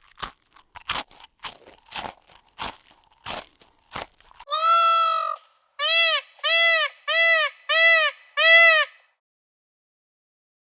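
A run of sharp crunching clicks, about three a second, followed by a loud animal call: one long call, then five short, evenly spaced calls.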